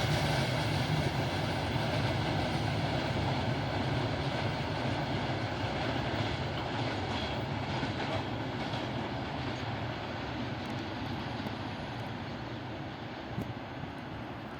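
Freight train rolling past, the steady rumble of its wagons on the rails slowly fading away.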